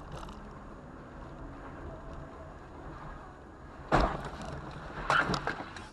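Steady car road noise, then a sudden loud bang about four seconds in and a second loud clatter about a second later.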